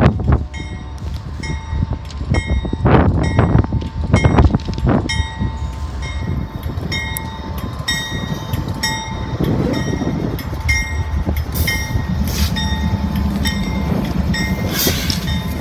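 Norfolk Southern diesel freight locomotives rumbling past at close range, with a bell ringing steadily about twice a second over the engine noise. A few loud knocks come in the first few seconds.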